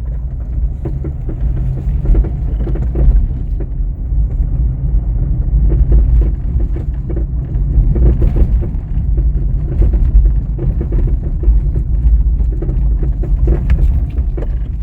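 VW Up! being driven, with a heavy road and tyre rumble and repeated knocks and clunks from the front suspension. The cause is worn front stabilizer bar links that have lost all their damping and have play.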